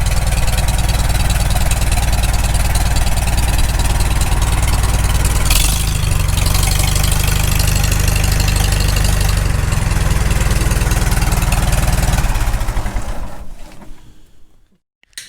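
Freshly rebuilt Farmall Super M's four-cylinder gasoline engine idling steadily after a restart, running without trouble. About twelve seconds in it is shut off and runs down to a stop.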